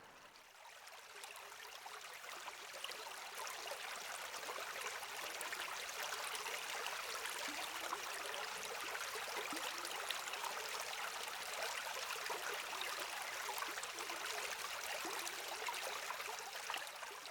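River water rushing steadily, fading in over the first couple of seconds.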